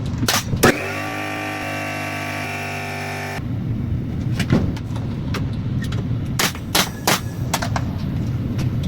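A steady low machine hum with repeated sharp knocks. About a second in, a steady whine of several tones joins it and cuts off suddenly near the middle.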